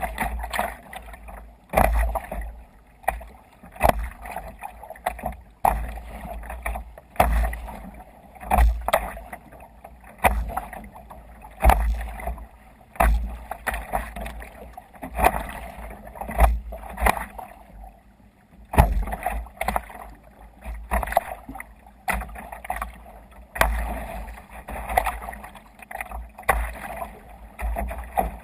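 Water splashing and sloshing against a kayak hull, in repeated surges with a low thump about every second or so.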